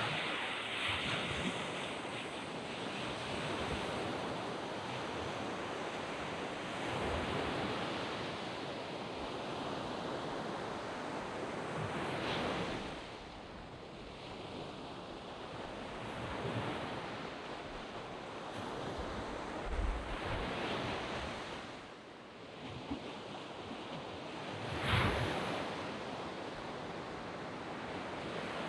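Waves breaking and washing up on a sandy beach, the surf swelling and falling back every four to six seconds.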